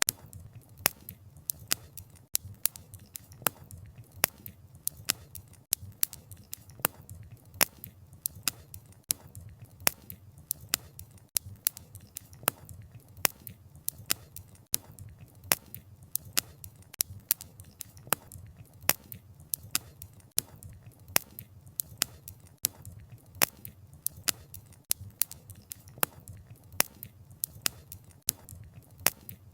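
Wood fire crackling: irregular sharp pops and snaps of burning wood, several a second, over a steady low rumble of flame.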